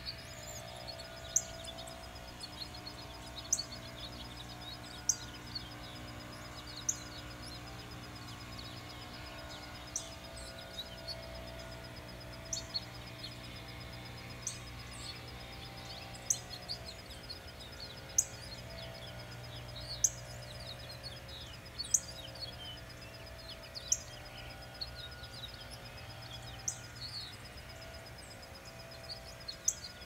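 Woodland birds calling: one bird repeats a short, sharp high chirp about every one and a half to two seconds among fainter twittering from others. A steady, fast-pulsing high trill and a low hum carry on underneath.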